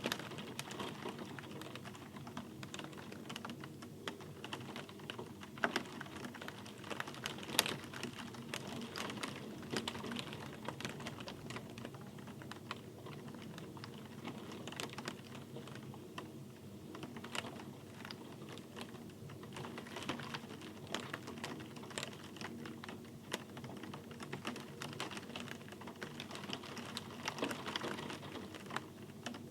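Steady rain with many irregular, sharp taps of individual drops over a soft continuous hiss.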